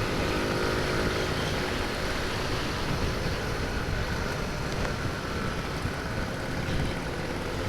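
Wind rushing over a moving motorcycle's microphone, with the small single-cylinder engine of a Honda C90 running steadily underneath at cruising speed.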